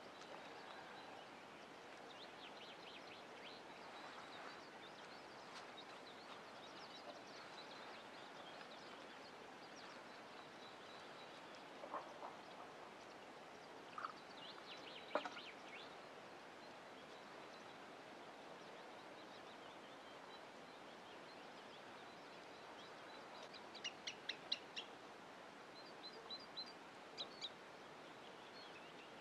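Faint outdoor ambience with small birds chirping and trilling now and then, a few short lower calls in the middle, and a quick run of high chirps near the end.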